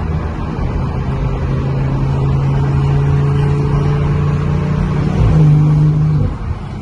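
Car engine and exhaust pulling hard under acceleration, with the exhaust dump open. A steady droning note builds for about five seconds, jumps to a louder, higher note, then falls away suddenly as the throttle is lifted.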